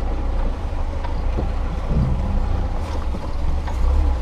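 Lada Niva's four-cylinder engine and drivetrain running with a steady, deep rumble, heard from inside the cabin, with a few light knocks from the car on a rough off-road track.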